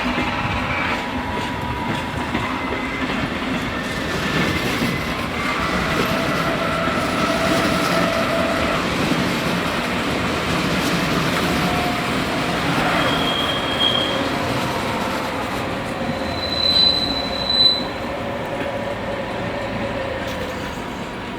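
Train rolling past on the tracks with a steady rumble, its wheels giving short high-pitched squeals, the loudest about three-quarters of the way through.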